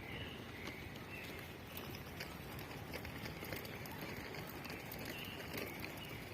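Birds chirping faintly over a steady outdoor background rumble, with short high calls recurring every second or so.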